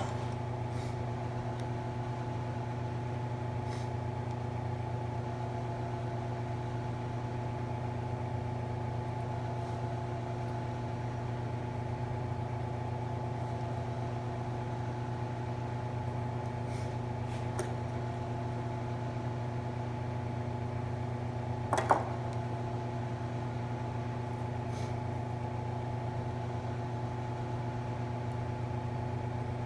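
A steady mechanical hum that holds one pitch throughout, with a single sharp click about 22 seconds in.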